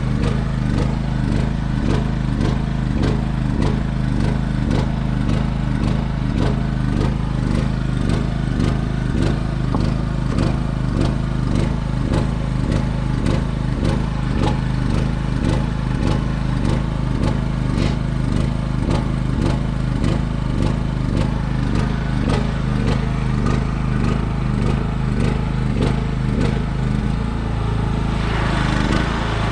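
An engine running steadily, with a regular pulse about twice a second. The sound shifts slightly near the end.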